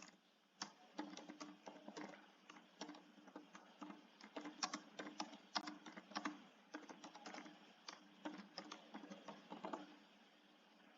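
Faint typing on a computer keyboard: irregular runs of keystrokes that die away about ten seconds in.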